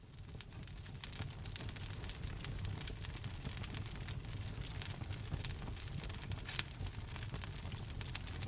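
Wood fire burning in a fireplace, with dense irregular crackles and pops over a low, steady rumble of flame. One pop about two-thirds of the way in stands out as the loudest. The sound builds up in level over the first second.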